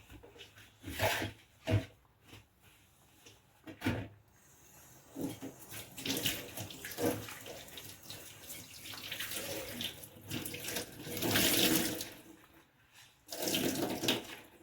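Kitchen tap running unevenly into a sink as dishes are rinsed by hand, loudest about eleven seconds in. A few sharp knocks of dishes being handled come in the first four seconds.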